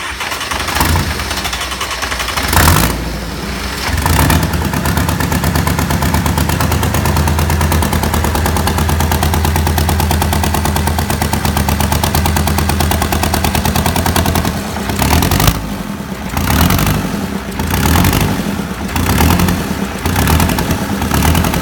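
A 611 engine being started: it cranks and fires unevenly for the first few seconds, then settles into steady running with a fast clattering beat. From about fifteen seconds in it is revved several times, rising and falling.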